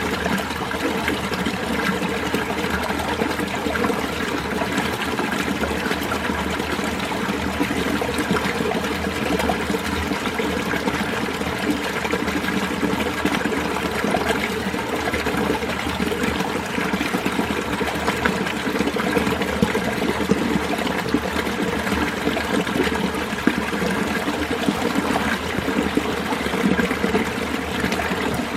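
Winter mountain stream flowing and splashing over rocks, running steadily.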